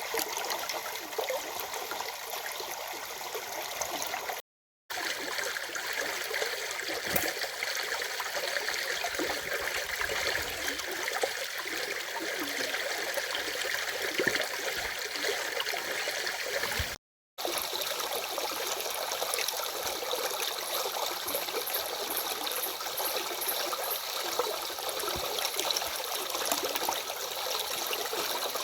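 Stream water running steadily, an even splashing hiss with no change in flow. It cuts out to silence for a split second twice, about four and a half and seventeen seconds in.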